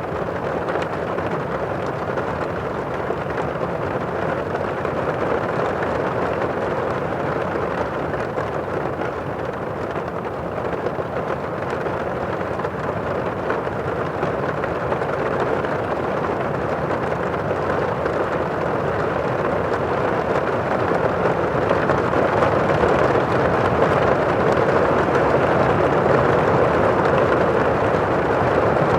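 Heavy rain on a roof, heard from inside the house as a steady, muffled hiss that grows a little louder about two-thirds of the way through.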